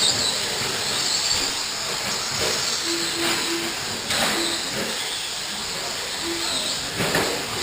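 Radio-controlled short course trucks racing on a dirt track: a steady hiss of motors and tyres with wavering high motor whines as the trucks speed up and slow down. Several short low beeps sound between about three and six and a half seconds in.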